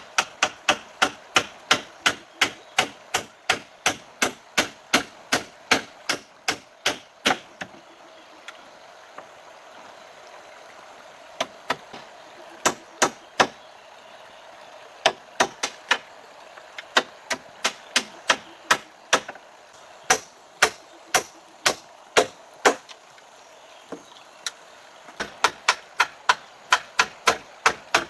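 Rapid repeated blows of a hand tool, about two to three strikes a second, in runs broken by short pauses, with a longer pause about a third of the way in.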